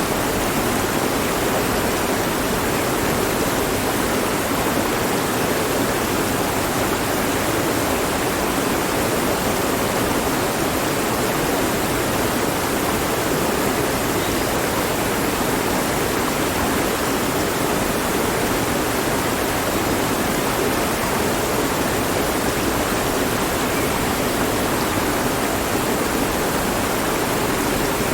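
Mountain stream rushing over rocks: a steady, unbroken hiss of flowing water.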